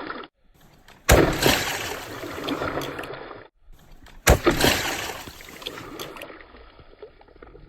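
Water splashing and sloshing, two sharp splashes about three seconds apart, each trailing off into running and trickling water.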